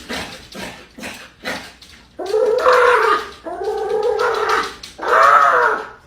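A dog vocalising: a few short sounds, then three long, wavering, drawn-out howling whines, each about a second long.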